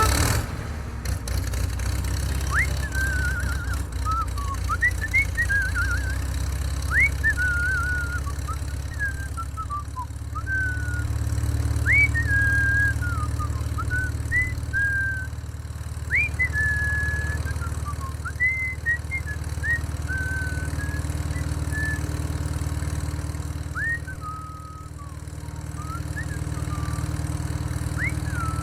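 A small motor running steadily with a low hum. Short chirping whistles rise and fall over it every second or two.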